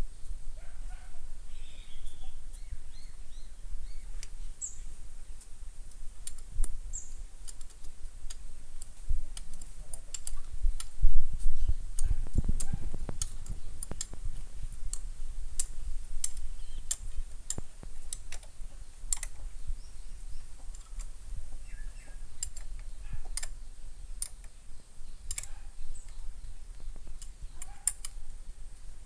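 Irregular metallic clicks and taps of hand tools working on a power tiller's diesel engine during assembly, with a low rumble that swells briefly in the middle and faint bird chirps.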